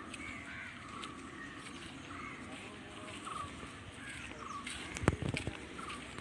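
Birds calling repeatedly in short calls, with a few sharp knocks or clatters about five seconds in.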